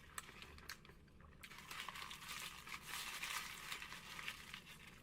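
Mukbang eating sounds: scattered small clicks, then a denser crinkling crackle from about a second and a half in until near the end.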